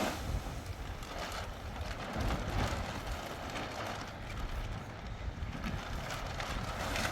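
Strong wind gusting against the microphone, a steady rushing noise with uneven low rumbling buffets that swell and fade.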